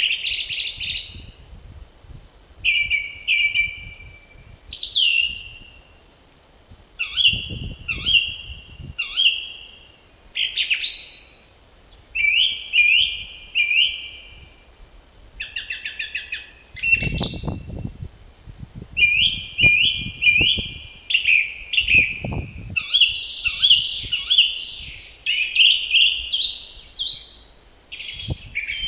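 Several songbirds singing in spring, short chirping phrases repeated one after another. Low gusts of wind rumble a few times, around 7, 17 and 22 seconds in.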